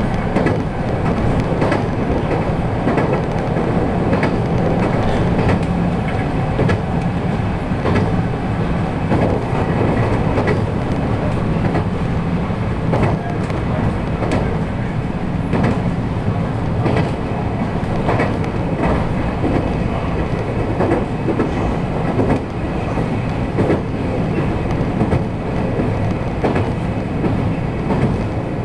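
JR 223 series electric train running at speed, heard from inside the car: a steady rumble with the wheels clicking over rail joints every second or two.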